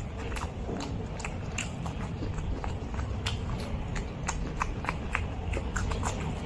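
Close-miked chewing of a mouthful of rice and curry eaten by hand, with many short wet mouth clicks scattered irregularly.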